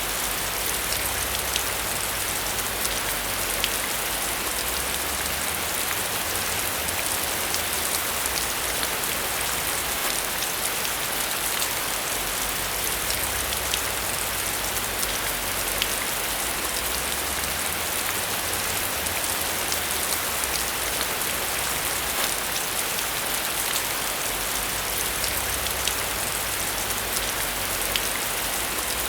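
Steady rain falling, a dense hiss with many individual drops ticking through it, over a low rumble that swells and fades every few seconds.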